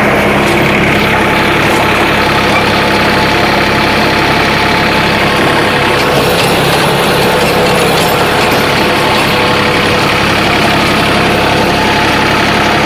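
John Deere 3036 mini tractor's three-cylinder, 36 hp diesel engine running steadily under load, with the churning of the rotavator. The sound is loud and continuous.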